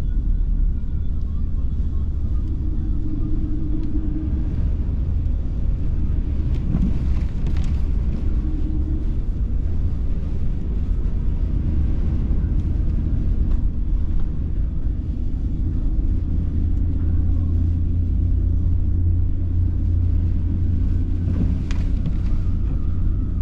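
Car driving: a steady low rumble of engine and tyre noise.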